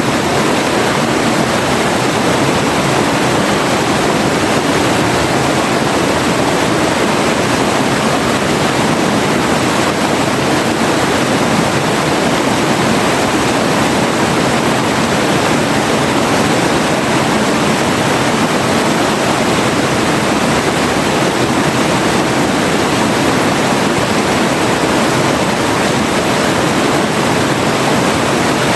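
River water rushing and splashing in a steady, unbroken wash of loud noise, with no changes or separate sounds.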